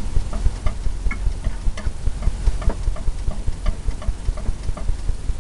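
Steady, even ticking, about three ticks a second, over a low pulsing rumble.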